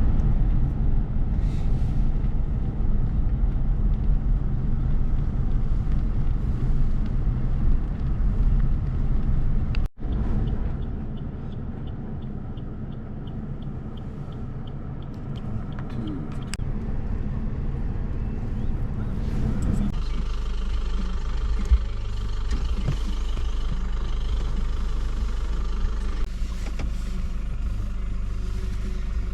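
A car's engine and road noise heard from inside the moving car, a steady low rumble. The sound changes abruptly about ten and twenty seconds in.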